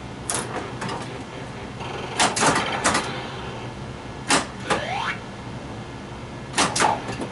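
Flash Gordon pinball machine in play: four bursts of sharp knocks and clacks as the ball hits playfield parts and the solenoids fire. About halfway through there is a gliding electronic sound effect.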